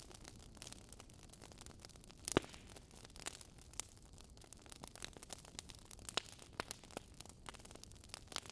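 Wood fire crackling: irregular small pops and snaps over a faint steady hiss, with one louder pop about two and a half seconds in.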